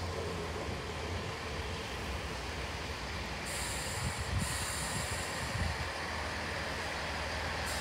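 Class 165 diesel multiple unit drawing slowly into a platform: a low diesel engine hum with wheel rumble on the rails, and a high-pitched brake squeal that sets in about three and a half seconds in and carries on as it slows.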